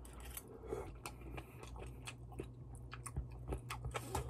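Chewing a mouthful of malatang: irregular soft wet mouth clicks and crunches, over a faint steady low hum.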